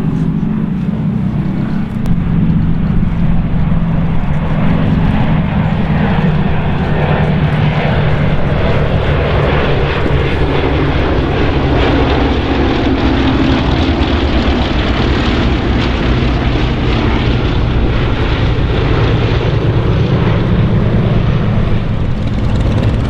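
Bristol Mercury radial piston engines of vintage propeller aircraft flying past in formation, a steady, loud drone. The pitch slowly sags through the middle and rises again near the end as the aircraft pass.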